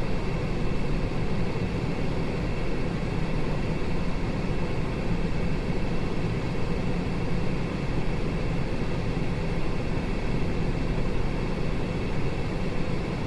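Steady engine and road noise inside the cabin of a 2008 Cadillac SRX with its 3.6-litre V6, driving at an even pace.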